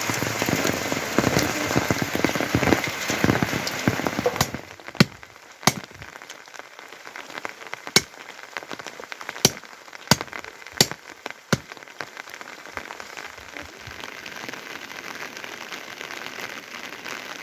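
Rain falling: dense and heavy at first, then about four seconds in it changes suddenly to a lighter patter with loud single drips landing one at a time.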